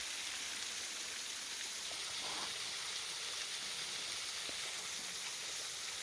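Waterfall running: a steady hiss of falling and splashing water.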